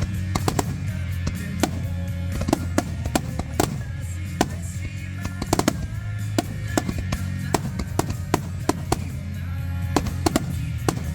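Fireworks bursting and crackling, many sharp irregular reports several a second, over music with a strong steady bass.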